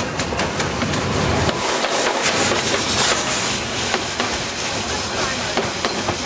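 Narrow-gauge steam train running: a loud, steady hiss of steam with many sharp clicks and knocks. A deep rumble under it drops away about a second and a half in.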